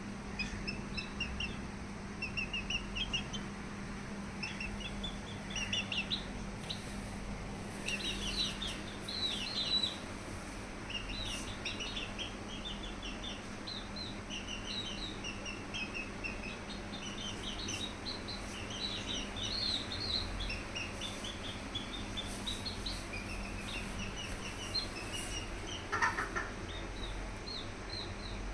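Busy, high-pitched chirping from small birds: many short, quick calls in overlapping runs, over a steady low hum.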